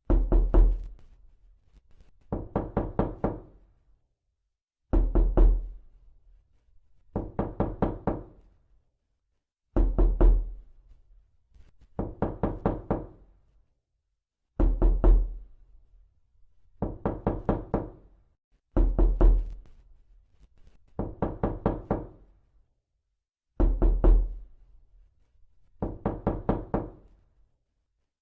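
Repeated knocking in quick bursts of five or six knocks, a burst about every two and a half seconds, each knock sharp with a short hollow ring.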